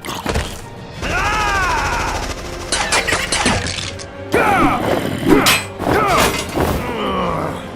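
Sound effects over background music: sweeping sci-fi tones that rise and fall, with sharp clicks and knocks between them.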